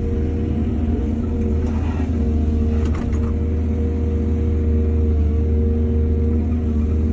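Excavator's diesel engine running steadily under load, with a brief clatter of knocks about three seconds in.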